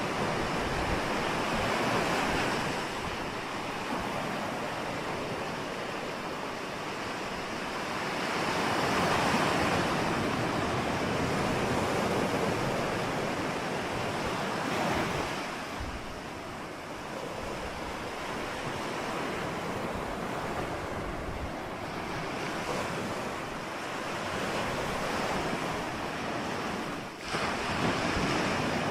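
Ocean surf: a continuous wash of waves breaking and running up the shore, swelling and easing every few seconds, with a sudden fresh surge near the end.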